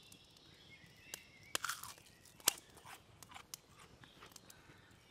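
Close crunching of a crispy battered dandelion-flower fritter being bitten into and chewed: a run of sharp crunches, loudest about one and a half to two and a half seconds in.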